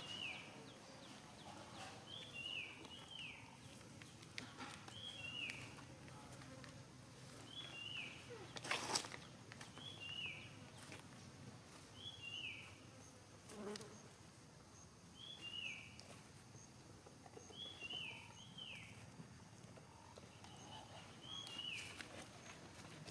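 A small animal's high call of two or three quick falling notes, repeated about every two seconds, over a faint background hiss, with a few sharp clicks now and then.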